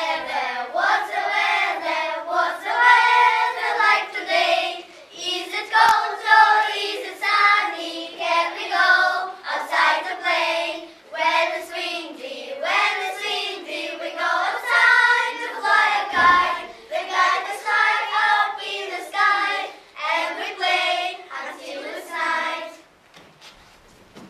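Children singing a song, the voices stopping near the end.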